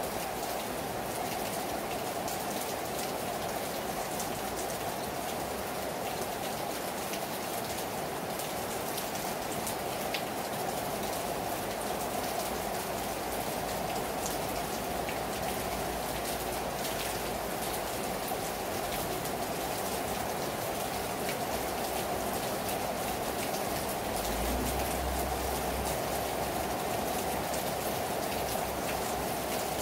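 Heavy rain falling hard on a terrace: a steady hiss of downpour with many individual drops ticking through it. A brief low rumble comes in about three-quarters of the way through.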